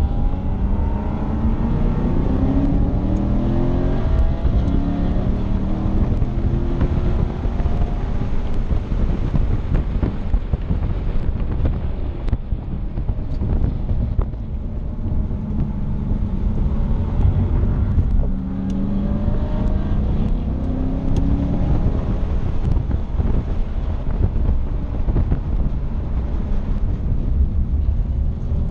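Chevrolet Camaro Z/28's 7.0-litre LS7 V8 heard from inside the cabin, pulling hard with its pitch rising again and again in the first few seconds and again about eighteen seconds in, and quieter while it eases off in between.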